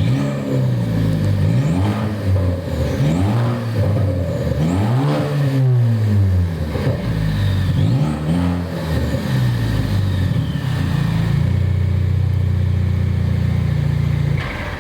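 Ford Focus ST engine with an open exhaust being revved in about five blips, each rising and falling back, the longest about five seconds in, then settling to a steady idle. The engine sound stops shortly before the end.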